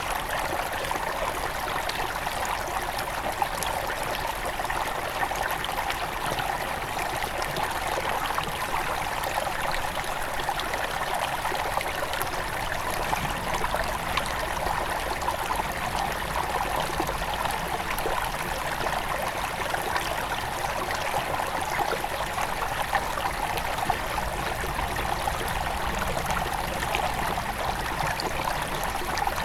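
Small forest river at its headwaters, flowing over stones in a steady rush, with fine babbling and trickling.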